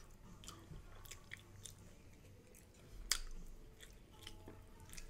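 A person chewing a mouthful of food, with soft wet mouth clicks and one sharper click about three seconds in.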